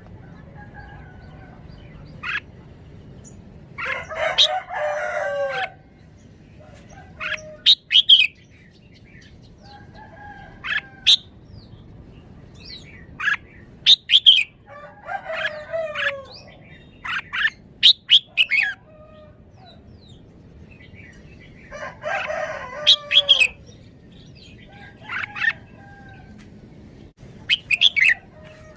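Red-whiskered bulbul singing: short, loud whistled phrases and calls repeated every few seconds, some longer and fuller, around 4–6 s and 22–23 s.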